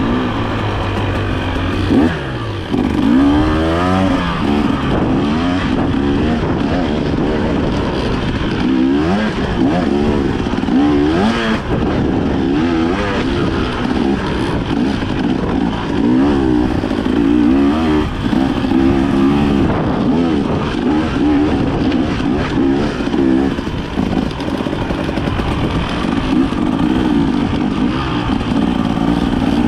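Dirt bike engine working up and down in revs under constant throttle changes while riding a rough trail, with occasional knocks and clatter from the bike over rocks.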